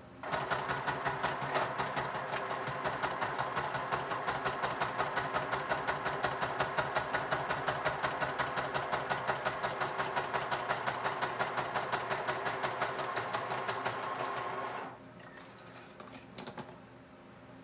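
Sewing machine stitching through paper journal pieces at a steady, rapid rate, then stopping abruptly near the end; a couple of faint clicks follow.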